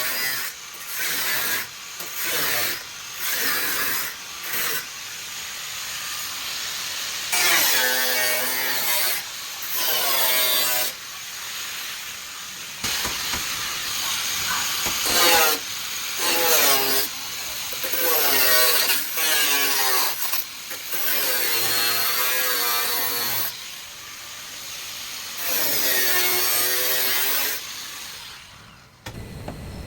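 Power tool cutting sheet metal in repeated short bursts of one to two seconds each. Its pitch sags under load and recovers between cuts.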